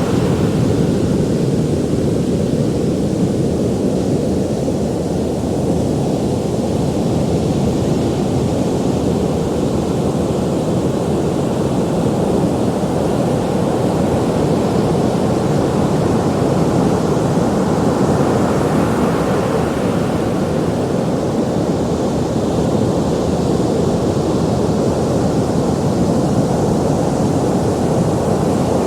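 Ocean surf: a steady, deep rush of waves breaking and washing in, with no pauses.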